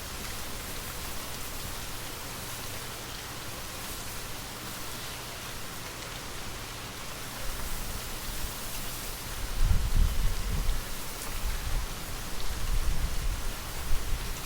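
Steady hiss of gentle rain falling. About halfway through, a low gusting rumble of wind joins it and comes and goes, growing louder near the end.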